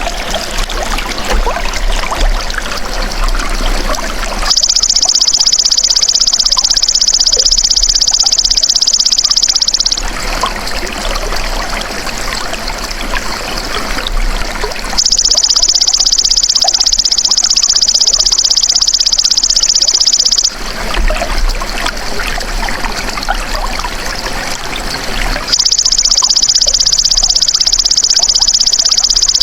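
A belalang emas (golden grasshopper) insect calling in three long, steady, high-pitched buzzes of about five seconds each, with gaps of similar length between them. Water trickles and flows throughout.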